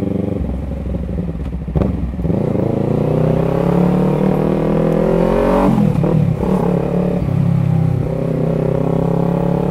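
Yamaha MT-03's 321 cc parallel-twin engine pulling at low speed in traffic, its pitch climbing for a few seconds, dropping at a gear change about six seconds in, then running steady.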